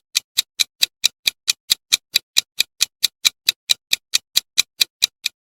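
Countdown timer sound effect: a steady run of sharp clock-like ticks, about four to five a second, that stops at the end.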